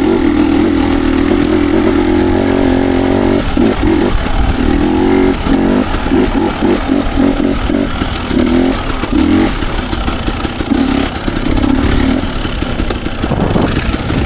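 Dirt bike engine under way, running steadily for a few seconds, then blipped on and off in quick throttle bursts for several seconds before settling again.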